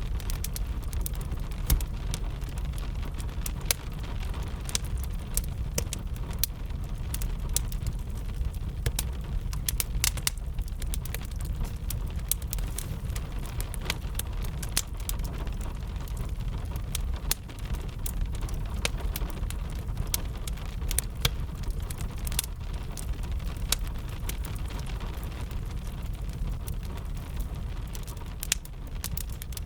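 A wood fire crackling with frequent sharp, irregular pops, over a steady wash of rain and a low rumble.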